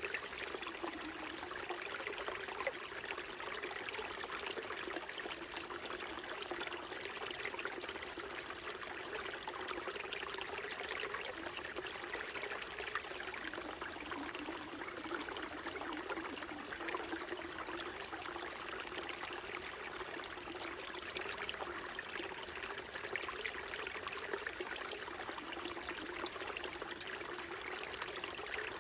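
Small mountain stream flowing steadily, a continuous trickling babble of water.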